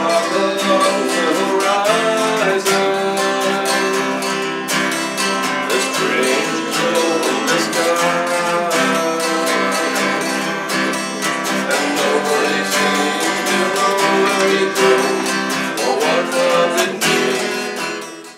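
Acoustic guitar strummed in a steady rhythm, with a voice singing along. It cuts off suddenly at the end.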